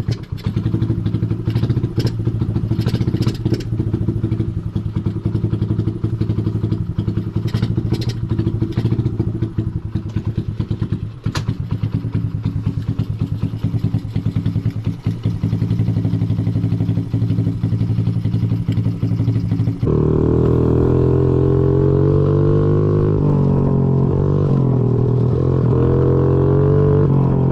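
2005 Honda CRF50 pit bike's small four-stroke single-cylinder engine running, with scattered clattering knocks. About twenty seconds in it cuts abruptly to a louder, steadier stretch where the engine pitch rises and falls.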